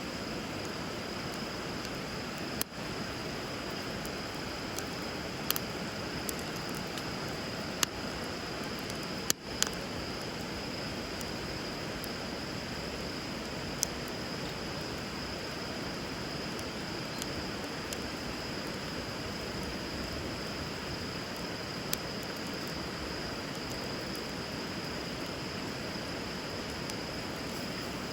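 Wood fire crackling with a handful of sharp pops, two loud ones close together about nine seconds in, over the steady rush of river water. A faint steady high tone runs underneath.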